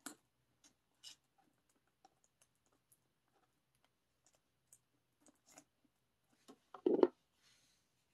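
Hands opening and handling a boxed CD album: scattered light clicks and taps, with a louder knock about seven seconds in, followed by a brief rustle.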